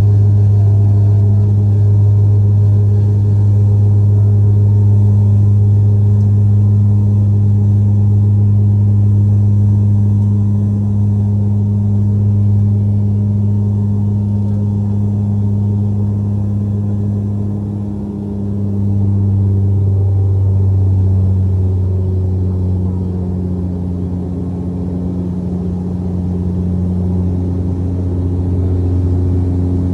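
Airplane engines in flight, a loud, steady, low droning hum. Its pitch shifts slightly lower about 19 seconds in.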